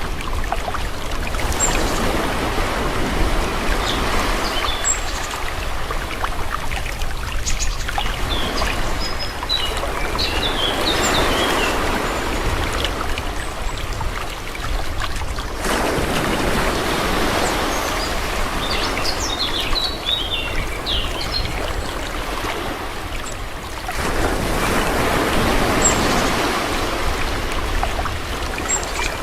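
Gentle sea waves washing in and drawing back, the rush of water swelling and fading about four times, every seven or eight seconds, with small high ticks of foam or water as each swell peaks.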